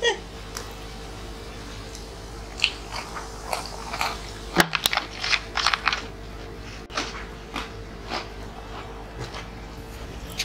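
Close-up chewing and crunching of crunchy fried snacks and rice, with scattered short crunches and mouth clicks, busiest in the middle. A faint steady hum lies underneath.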